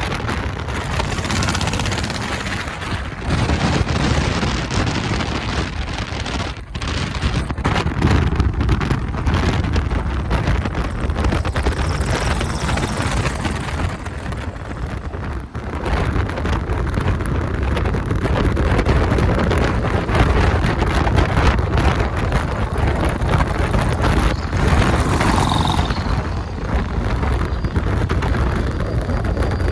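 A vehicle on the move, with heavy wind buffeting the microphone, a steady noise that surges and dips throughout.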